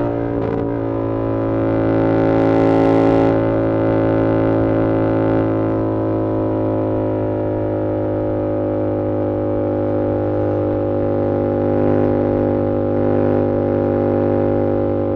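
2022 Yamaha R7's 689cc parallel-twin engine running through an SC-Project CR-T exhaust under way at fairly steady revs. There is a brief break in the note about half a second in and a short rise around two to three seconds in, then an even drone.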